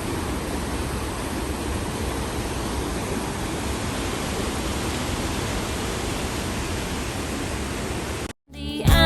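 Steady, even rush of a waterfall's falling water, cutting off suddenly near the end.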